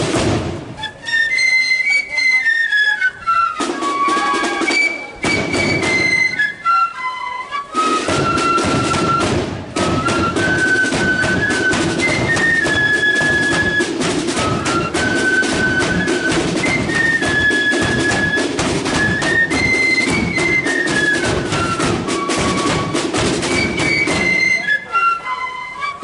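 Marching flute band playing a tune on flutes in unison, high and stepwise, over snare and bass drums; the drums fill in fully about eight seconds in.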